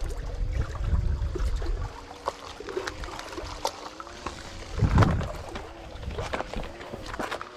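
Water sloshing and wind buffeting the microphone, with scattered small clicks, a louder splash-like burst about five seconds in, and a faint wavering hum underneath.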